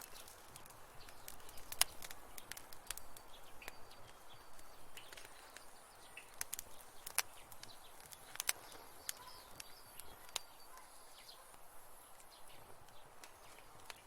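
Wood fire in a fireplace crackling, with irregular sharp pops over a soft steady hiss and a few faint short whistles.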